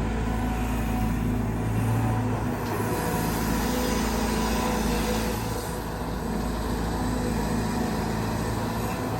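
Caterpillar 320GX excavator's C4.4 four-cylinder diesel engine running steadily, with the hum of its hydraulic pump; the level eases slightly about six seconds in.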